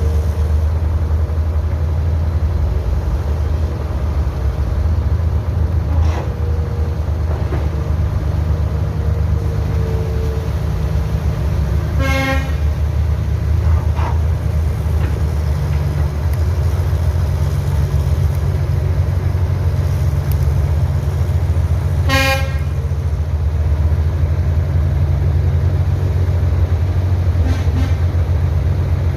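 Heavy construction machinery engine running steadily with a low rumble, and a vehicle horn sounding two short toots about ten seconds apart.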